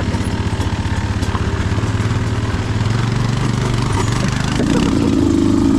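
Beta 200RR two-stroke dirt bike engine chugging at low revs with evenly spaced pulses, then picking up revs about four and a half seconds in.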